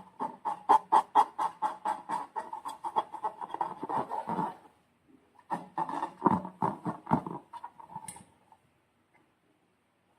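Slime being squeezed and worked by hand, giving a fast train of wet clicks and pops, several a second. A short pause halfway through, then a second run that stops about eight seconds in.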